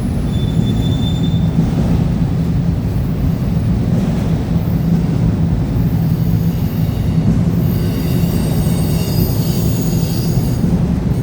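Freight train cars rolling past with a steady heavy rumble, and a high-pitched steel wheel squeal that rises from about eight seconds in and fades out just before the end.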